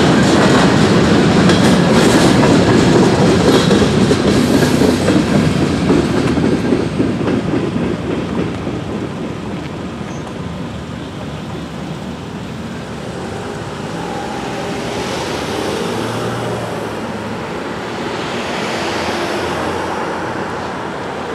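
Freight train passing over a road crossing, loud for the first six or seven seconds, then fading as the last cars go by. Afterwards, quieter road traffic drives past.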